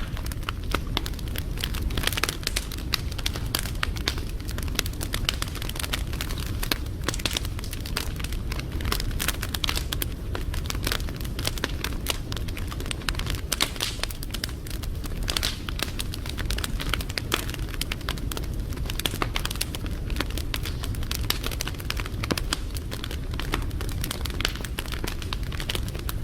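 Burning fire crackling: a dense, irregular run of small snaps and pops over a steady low rumble.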